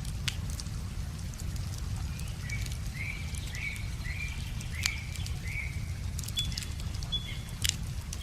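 Wood fire crackling with scattered sharp pops over a steady low rush of river water. In the middle, a bird sings a run of about six short chirps, then gives a brief higher whistled note.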